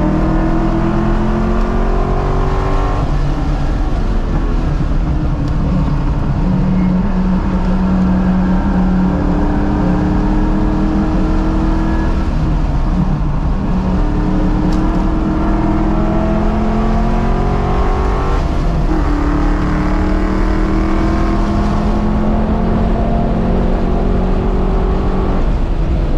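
1989 Ford Mustang's 5.0 V8 heard from inside the cabin under hard driving on track. The revs climb and drop back several times as it pulls through the gears and lifts for corners.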